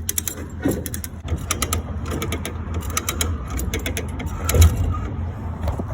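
Ratchet of a hand-operated winch clicking in quick runs of clicks as it is worked, pulling a vehicle chassis onto a trailer, over a steady low rumble.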